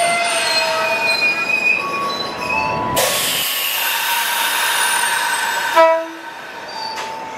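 Ex-Japanese commuter electric train (1000/5000-series type) on the move, its wheels and brakes squealing in several high steady tones. About three seconds in a hiss of air sets in, the air-brake release that gives these trains their 'piyuts' sound, and near six seconds there is a short, loud tone.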